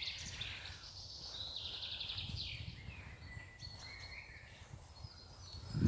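Small songbirds singing faint trills and whistled notes, over a steady low rumble.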